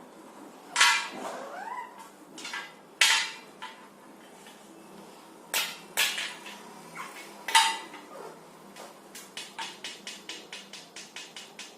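Parrot giving a series of loud, harsh squawks and screeches, some with rising pitch, then a rapid run of sharp clicks at about six a second near the end.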